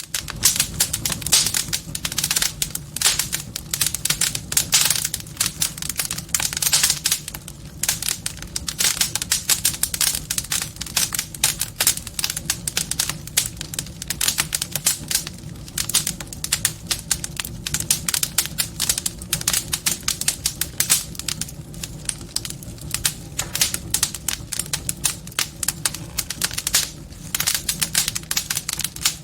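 Wood fire crackling in a fireplace: a dense, irregular stream of sharp crackles and pops, with a steady low sound underneath.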